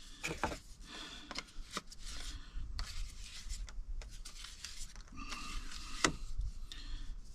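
Rubbing and scraping with scattered sharp clicks as a length of plastic water pipe and its push-fit fittings are handled, the strongest click about six seconds in.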